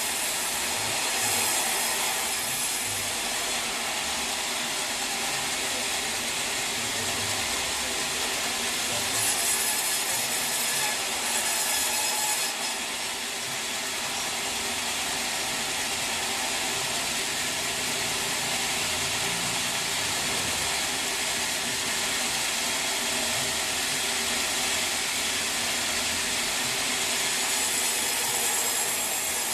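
Sawmill saw cutting through a teak log, a continuous high rasping noise. It grows harsher for a few seconds around the tenth second, then eases slightly just after twelve seconds.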